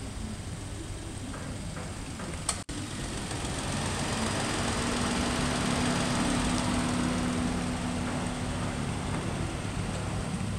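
Nissan Note's three-cylinder petrol engine idling steadily with the bonnet open, a low even hum. There is a brief click and drop-out about two and a half seconds in. From about four seconds in it gets louder, heard close over the open engine bay.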